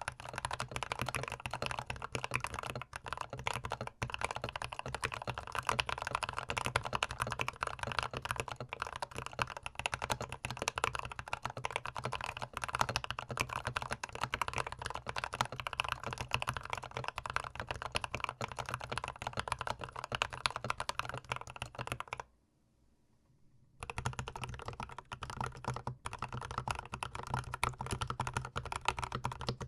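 Fast, continuous typing on a GMMK Pro mechanical keyboard fitted with C3 Tangerine linear switches, with many keystrokes a second. The typing stops for about a second and a half near the end, then starts again.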